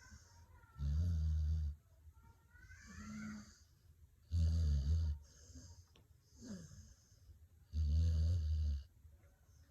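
A dog snoring: three loud, low snores about three and a half seconds apart, with softer whistling breaths between them.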